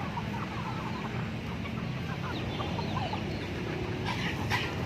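Chickens clucking and chirping in short, scattered calls over a steady low background hum, with a brief rustling noise about four seconds in.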